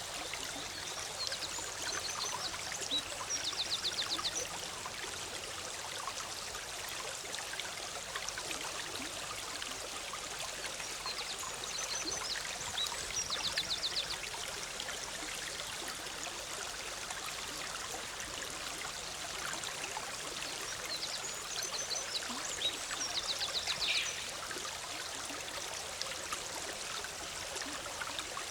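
Forest river flowing and bubbling steadily over rocks. A songbird sings the same short phrase three times, about ten seconds apart, each phrase ending in a fast run of notes.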